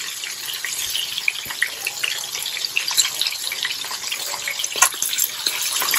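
Flour-and-cornstarch-coated chicken pieces frying in shallow oil in a wok: a steady sizzle with constant small crackles and pops, and one sharper click almost five seconds in.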